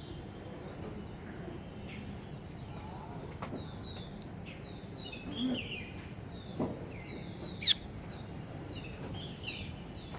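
Small birds chirping, with many short high chirps every half second or so over a steady background hiss and one much louder sharp call about three quarters of the way through.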